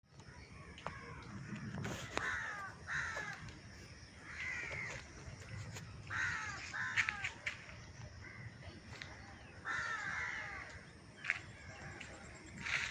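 Crows cawing repeatedly: short harsh calls that fall in pitch, in groups of two or three every couple of seconds.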